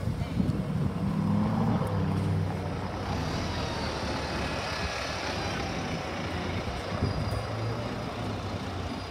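Lamborghini Urus twin-turbo V8 running as the SUV pulls away past, its low engine note loudest for the first couple of seconds and then fading into street traffic noise as it drives off.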